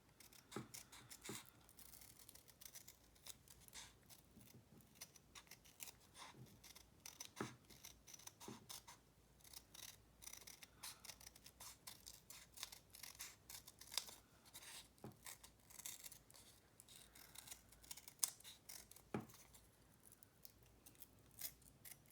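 Scissors snipping through cardstock backed with collaged book paper: a faint, irregular run of small cuts as a bird shape is cut out.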